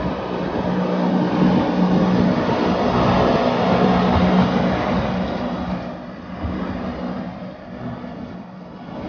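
Cogwheel train running, heard from inside the carriage: a steady mechanical hum with a low drone under a rushing noise, louder in the middle and easing off after about six seconds.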